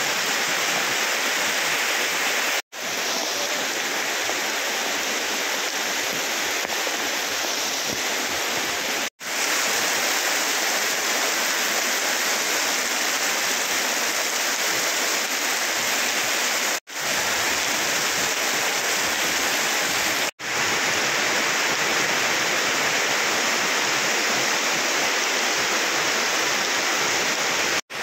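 Heavy rain pouring steadily on a street, a dense even hiss of water. The sound cuts out for an instant about five times and comes straight back.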